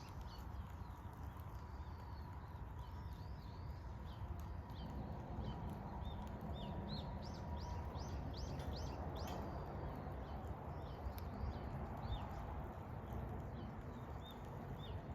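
Small birds chirping in many short, quick down-sweeping calls over a steady low outdoor rumble.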